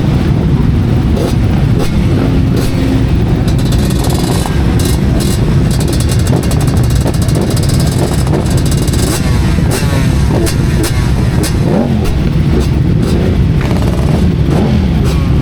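Motorcycle engine running while riding, under heavy steady wind noise on the microphone.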